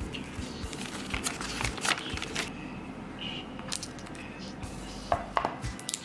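Hands handling a new iPad and its packaging: irregular light taps, clicks and rustles, with a sharper cluster of clicks about five seconds in.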